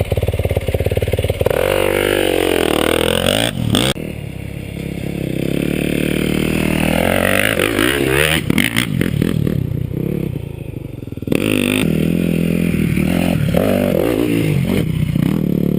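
Dirt bike engine revving up and down as it is ridden, its pitch rising and falling with gear changes and throttle. The sound breaks off and changes abruptly a few times.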